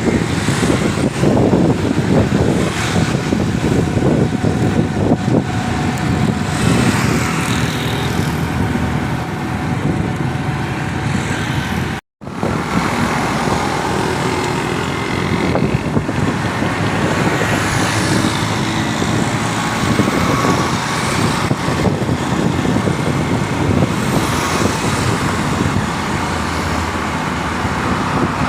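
Road traffic: a steady din of passing motor vehicles. The sound cuts out for a moment about twelve seconds in.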